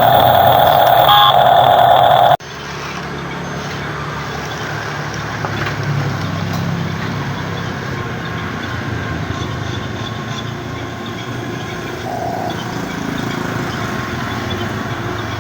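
A loud electronic beeping tone at a few fixed pitches, the kind of reversing beeper an RC truck's sound module plays, cuts off abruptly about two seconds in. It is followed by the steady whir and low hum of small electric RC construction machinery working, with a brief faint beep about twelve seconds in.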